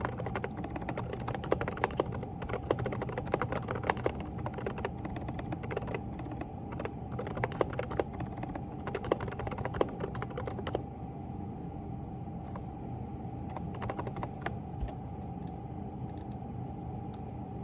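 Typing on a mechanical keyboard with silent, lubed switches, the Groovestone GV10: a fast, busy run of keystrokes for about eleven seconds, then slower, scattered key presses. A steady faint hum lies underneath.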